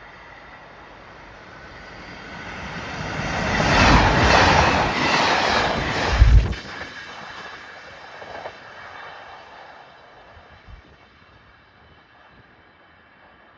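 A KiHa 283 series diesel limited express train passing through a station at speed. Its rumble builds, is loudest for a couple of seconds with a sharp low jolt at the end of the pass, then dies away.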